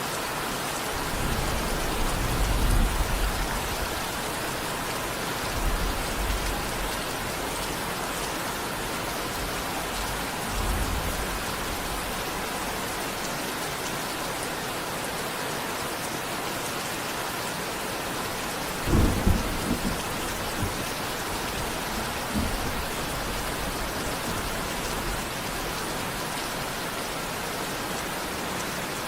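Steady rain hiss with low rumbles of thunder several times. The loudest, about two-thirds of the way in, is a sharper crack of thunder.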